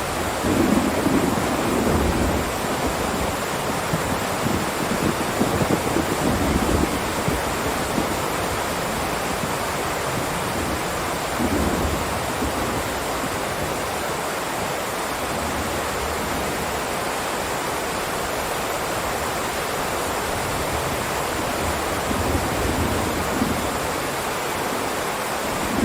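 Heavy rain falling in a steady downpour. Low rumbles swell and fade over it several times: in the first few seconds, again around five to seven seconds in, briefly near twelve seconds, and once more near the end.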